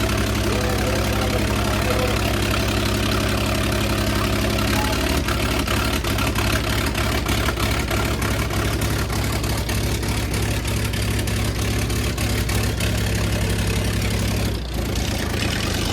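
Tractor engine running steadily. Its note changes about five seconds in and drops briefly near the end.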